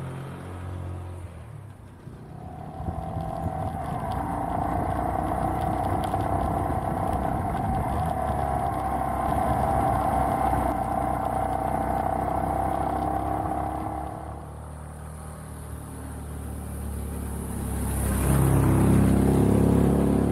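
Beta Alp trail motorcycle's engine running at a steady pace with a held whine, dropping back, then louder again near the end.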